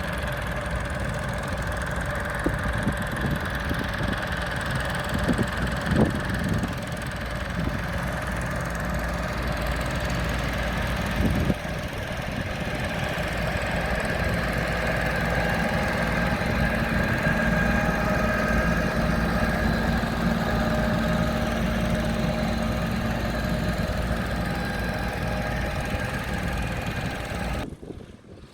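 Tractor engine running steadily, with a couple of short knocks, then cutting off sharply near the end.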